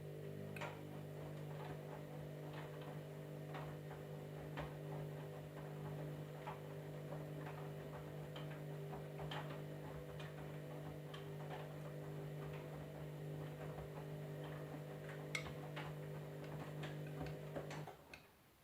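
Candy washing machine running with a steady hum and irregular clicks and taps on top; the hum stops abruptly near the end.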